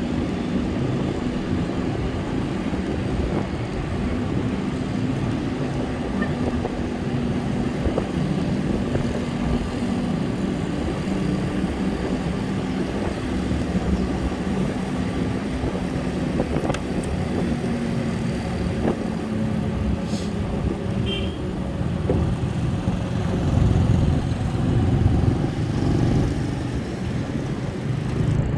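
Road traffic noise with motorbikes and cars running, a steady low rumble throughout. A short high-pitched beep sounds a little after twenty seconds.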